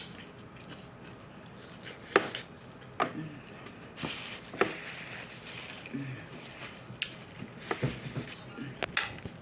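Close-up crunching and chewing of toasted hard taco shells, with sharp crackling bites about once a second.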